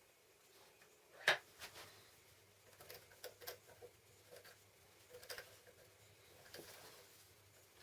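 Scattered faint clicks and taps of small hard objects being handled, the loudest a single sharp click about a second in.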